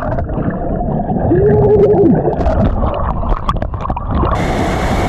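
Muffled underwater churning and bubbling, heard through a submerged microphone, with a short muffled held tone a little over a second in. About four seconds in, the sound opens out into the steady rush of the waterfall as the microphone comes out of the water.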